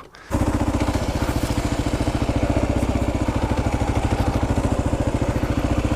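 Kawasaki KLR650's single-cylinder four-stroke engine cutting in abruptly a moment in, then running loud and steady at a constant pitch with a fast, even pulsing beat.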